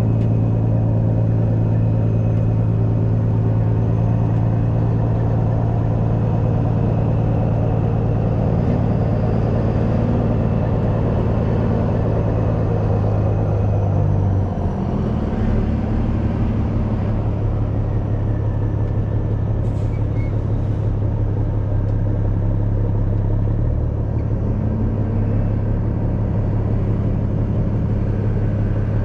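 Heavy truck's diesel engine running close by, a steady low note with a few brief rises and falls in engine speed and a change in its note about halfway through.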